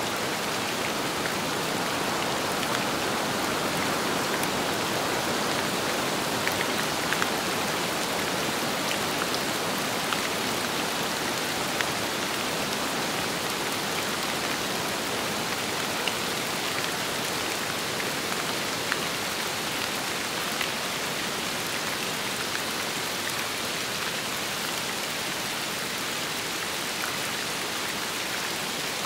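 Steady rain falling, an even hiss with scattered single drops ticking sharply through it.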